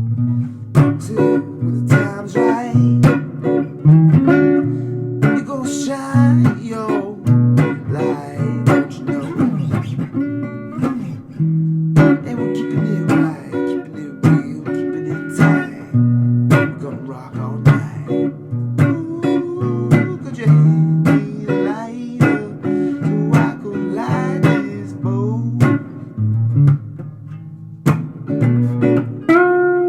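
Guitar improvising a blues line: quick runs of plucked single notes and chords over a low repeating bass part.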